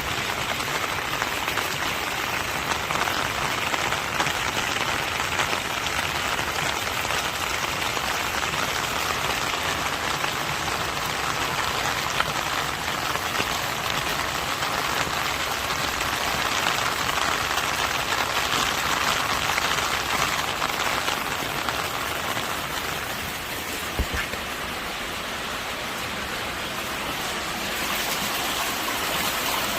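Rainwater running and splashing in a steady rush, a little quieter for a few seconds near the end, with a single sharp knock about 24 seconds in.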